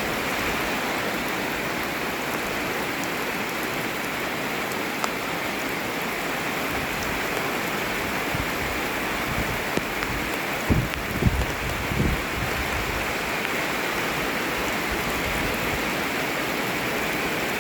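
Heavy rain falling steadily, an even, dense hiss of rain. A few dull low thumps come about two-thirds of the way through.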